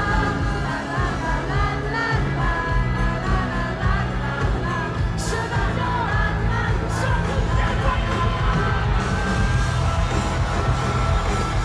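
Live band playing pop-rock, with a lead vocal over heavy bass and drums, and some shouts from the crowd.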